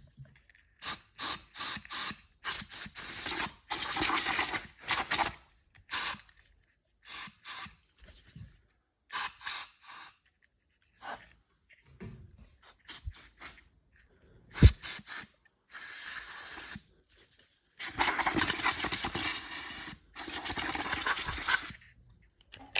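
Canned compressed air being sprayed in repeated hissing bursts into a Eureka Mignon Specialita grinder's chute, to blow out coffee grounds. There are many short puffs and a few longer blasts, the longest lasting about four seconds near the end.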